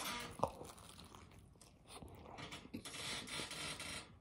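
A person biting into and chewing a fried chicken sandwich, with soft irregular crunching of the breading.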